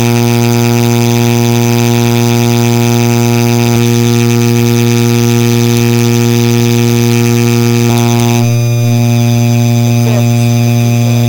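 Hampton Bay Landmark III Plus ceiling fan motor running with a loud, steady electrical hum and a buzz of many overtones above it, from a unit described as the noisiest Landmark.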